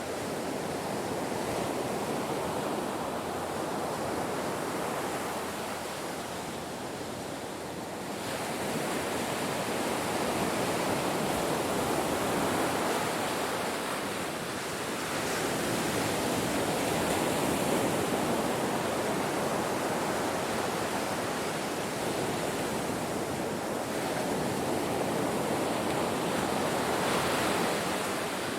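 Ocean waves breaking and washing onto a shore: a continuous rushing surf that swells and eases in slow surges every several seconds.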